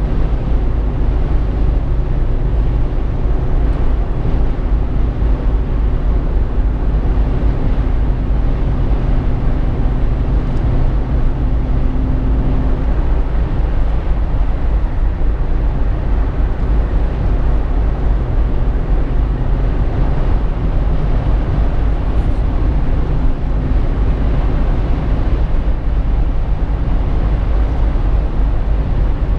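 Inside the cabin of a Jeep Wrangler JK driving on the road: a steady deep rumble of road and engine noise, with a faint steady drivetrain hum.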